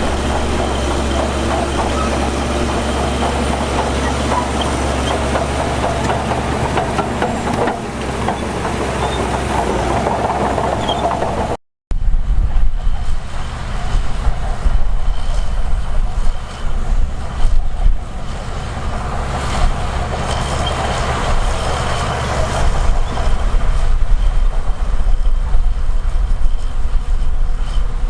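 Heavy diesel earthmoving machinery running steadily, a bulldozer or dump truck engine with track and load noise. The sound drops out completely for a moment a little under halfway through, then the machinery carries on.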